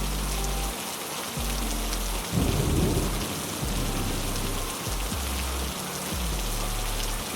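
Steady heavy rain with a short burst of thunder about two and a half seconds in.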